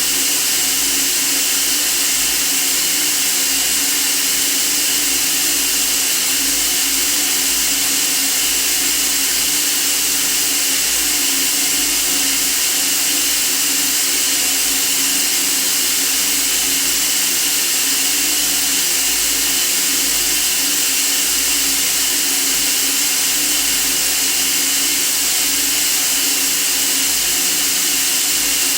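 Steady white noise: an even, unchanging hiss, brightest in the high treble, with a faint low hum underneath.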